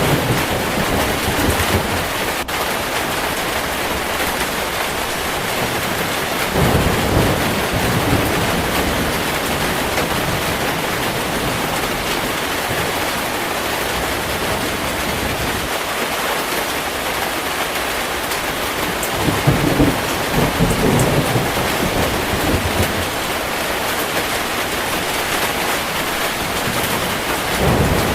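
Heavy rain falling steadily as a dense hiss, with low rolls of thunder swelling and fading several times: at the start, about a quarter of the way in, about two-thirds in, and again near the end.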